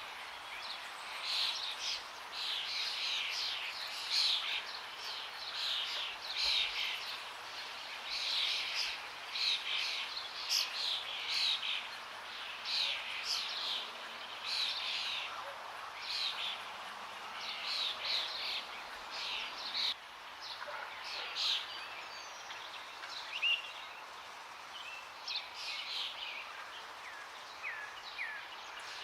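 Several songbirds singing and calling, a dense overlapping chorus of quick chirps and trills that thins out after about twenty seconds, over a steady background hiss.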